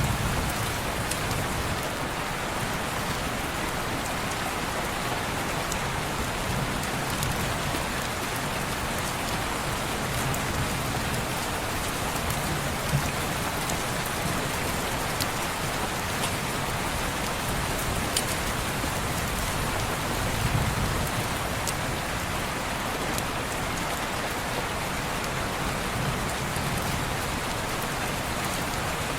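Steady rain falling on a window pane, an even hiss with a few sharp ticks scattered through it.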